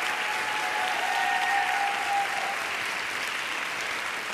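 Studio audience applauding, steady clapping throughout, with a faint held tone under it for the first two seconds or so.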